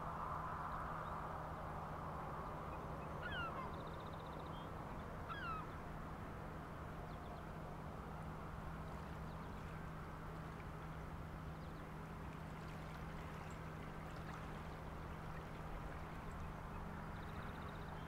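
Two short bird calls, each sliding down in pitch, about two seconds apart, over a steady low hum and a faint even background wash.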